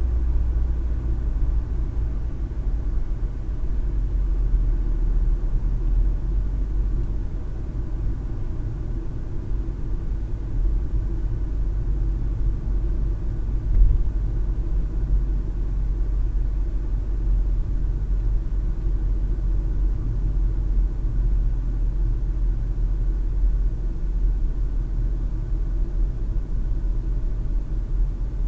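Steady low rumble of a car driving, heard inside the cabin: road, tyre and engine noise, with a brief bump about 14 seconds in.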